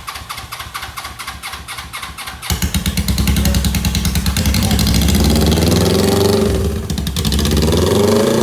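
2007 Suzuki GS500's air-cooled parallel-twin engine cranking on the electric starter in a quick, even rhythm, then catching about two and a half seconds in and running loudly, its revs rising and falling, with a short dip about seven seconds in. This is the first start after an engine swap.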